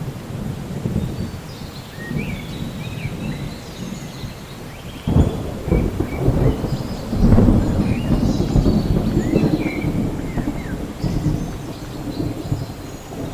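Steady rain with rolling thunder: a low rumble that surges suddenly about five seconds in and swells louder again around seven seconds, then eases off.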